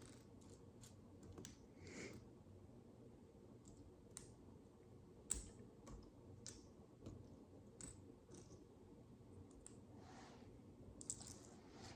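Tiny plastic micro building bricks being handled and pressed together: faint, irregular sharp clicks, the loudest about five seconds in, with soft rustling of parts between them.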